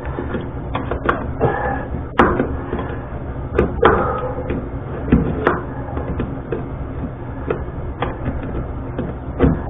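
Irregular metallic clicks and knocks of a hand tool working the nut off a toilet's floor bolt, over a steady low hum.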